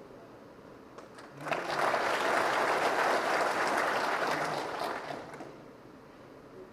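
An audience applauding: clapping starts about a second and a half in, holds steady for about three seconds and dies away.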